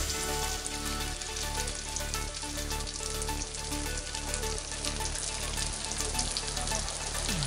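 Floured slices of beef liver sizzling and crackling as they fry in melted butter in a frying pan.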